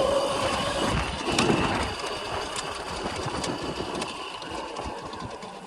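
A 2000 W electric bike riding over rough ground: the motor's steady whine fades out in the first second and a half, leaving tyre and wind noise with scattered knocks. The whole sound dies away steadily toward the end.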